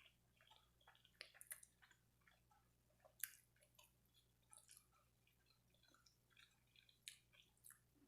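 Faint chewing and wet mouth clicks of a person eating, coming irregularly with one louder smack about three seconds in.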